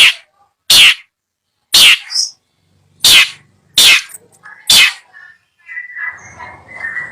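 Long-tailed shrike (cendet) giving short, harsh calls about once a second, six in a row, followed near the end by quieter, softer twittering.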